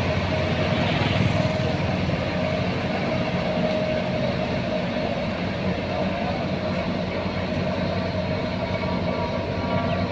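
Heavy diesel construction machinery running steadily, a dense mechanical rumble with a steady engine drone.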